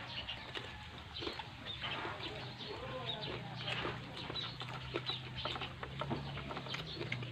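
Close-up chewing of crispy lechon skin: irregular crunches and wet mouth clicks, over a low steady hum.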